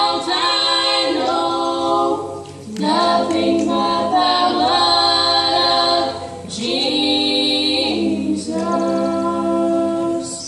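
Gospel choir singing a cappella in long held chords, with brief breaks between phrases about two and a half and six and a half seconds in.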